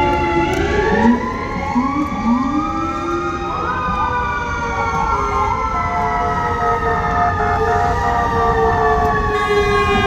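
Sirens of two fire trucks, an FDNY engine and ladder truck, responding: several sirens overlap, winding up and sliding down in pitch throughout.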